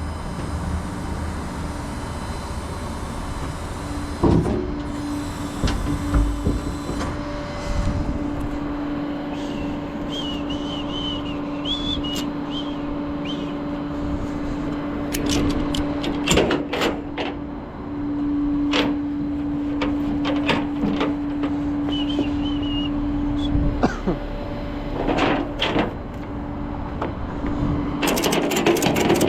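Flatbed tow truck's hydraulic bed running with a steady hum from about four seconds in, dipping briefly in the middle and stopping near the end, amid sharp metal clanks and clicks as the car is unloaded.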